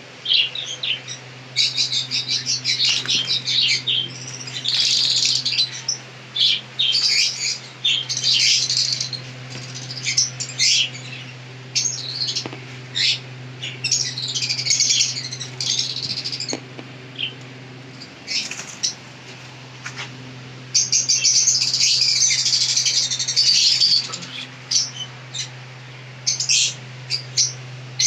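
A group of small pet birds chirping and calling over one another in busy, overlapping bursts, most intense about three-quarters of the way through. A steady low hum runs underneath.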